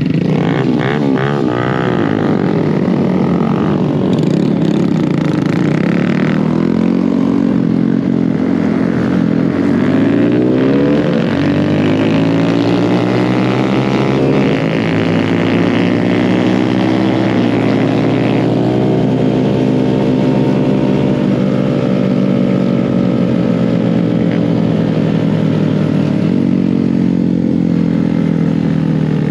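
Motorcycle engine running, its pitch rising and falling slowly as it speeds up and slows down.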